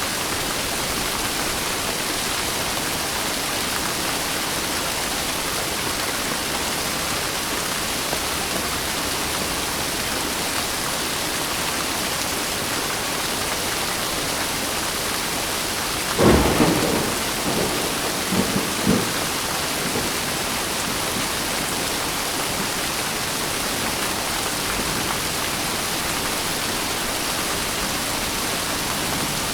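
Steady heavy rain, with a sudden thunderclap a little past halfway through that rumbles on in a few weaker rolls for about three seconds.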